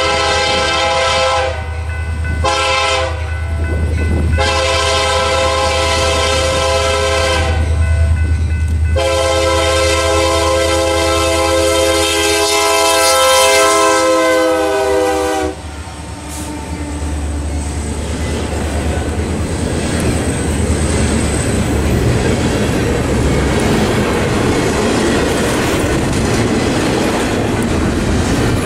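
Union Pacific diesel freight locomotives sounding their horn in several blasts, the last held for about six seconds and cutting off abruptly about 15 seconds in, over the low running of the diesel engines. Then the rolling rush and clickety-clack of double-stack container cars passing close by.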